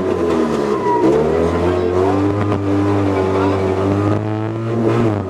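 Fiat 126p rally car's air-cooled two-cylinder engine revving hard, heard from inside the cabin. Its pitch dips about half a second in and again near the end, each time climbing back up.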